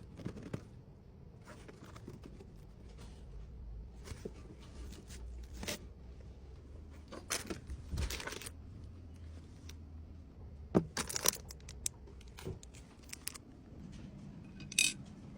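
Faint, irregular rustling and crinkling of packaging being handled, with a scattered handful of short clicks and taps.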